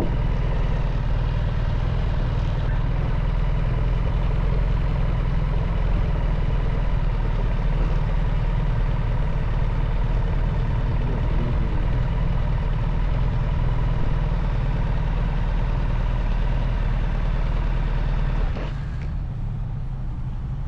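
BMW R1300 GS boxer-twin engine running steadily on the move, with wind and road noise. Near the end the sound drops a step and the hiss of the wind fades.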